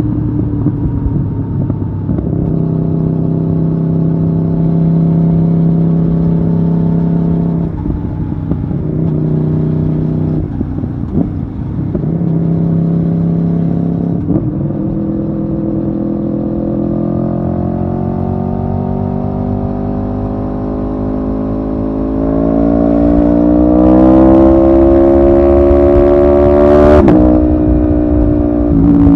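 Aprilia Tuono V4R's V4 engine heard from the rider's seat while riding. The revs hold steady with a few brief dips in the first half. From about halfway they climb in one long rise that grows louder, then drop sharply near the end.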